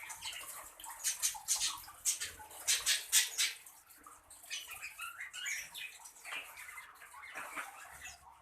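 Birds calling with short chirps in the second half. Before them comes a quick run of sharp, scratchy rustling clicks, the loudest part.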